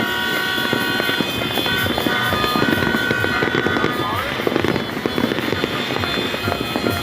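Fireworks crackling and popping in a dense, continuous barrage, with steady high tones held over it.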